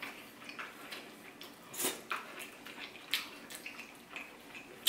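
Close-up eating sounds: wet chewing and lip smacks, with a few short sharp smacks or clicks standing out over a quiet background.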